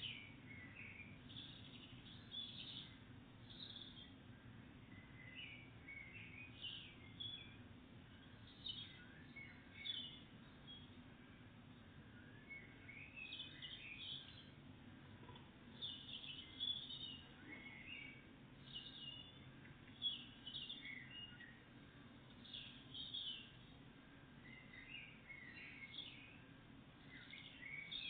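Faint songbirds chirping and singing, a steady stream of short calls and song phrases, over a low steady background rumble.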